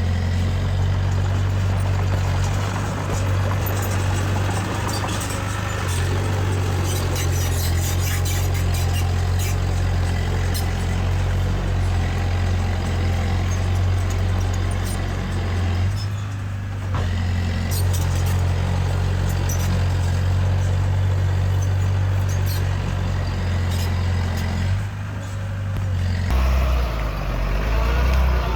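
Heavy diesel earthmoving machinery running steadily under load, with a deep engine hum and scattered metallic clanks; the engine note drops near the end.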